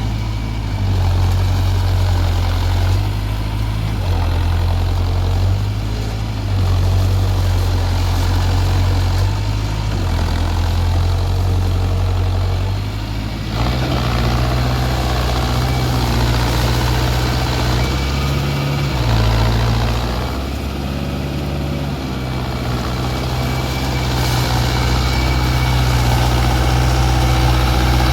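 Mahindra tractor's diesel engine running, its speed wavering up and down every second or two, then settling to a steadier, slightly higher pitch about halfway through.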